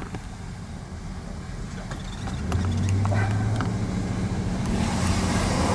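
Motor vehicle engine running with a steady low hum that gets louder about two and a half seconds in, as a vehicle pulls up close, with a rush of noise near the end.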